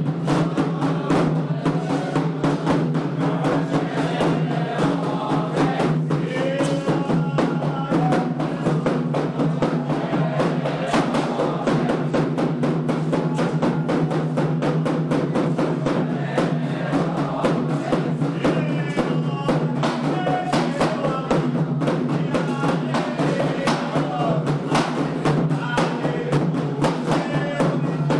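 Candomblé ritual music for Xangô: atabaque hand drums beating a fast, continuous rhythm while voices sing chants over them.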